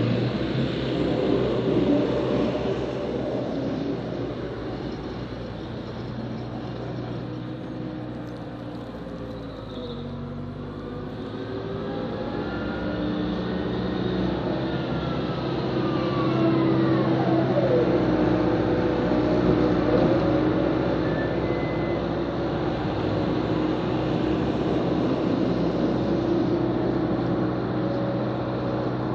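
Snow-plowing machine's engine running, its note shifting as it works, with a whine that slides up and then back down in the middle stretch and louder running after that.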